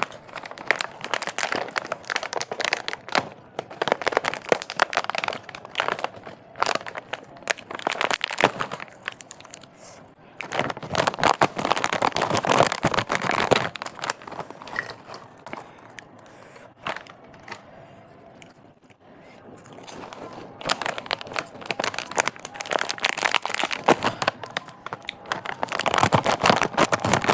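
Close-miked crunching of a crunchy snack being bitten and chewed, a dense crackle in three long bursts with quieter chewing between.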